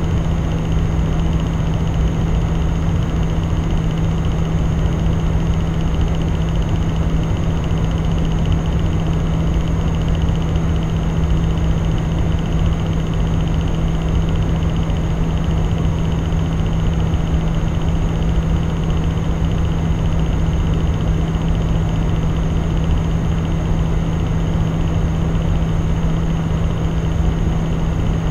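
OCZ Fatal1ty 750W power supply running with a steady hum and whir from its fan, plus an intermittent clicking that comes and goes, blamed on a noisy fan bearing.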